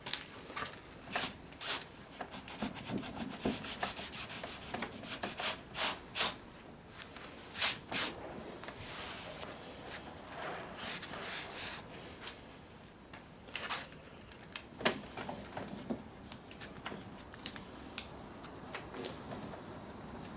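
Rust being scrubbed off metal parts of an old benchtop lathe by hand: irregular short rubbing and scraping strokes, with a few sharp clicks.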